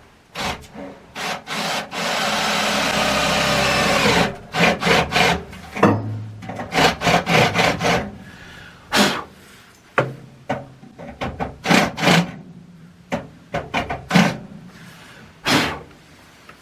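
Objects being handled: a rasping, rubbing noise lasting about two seconds, then a scatter of sharp knocks and clicks.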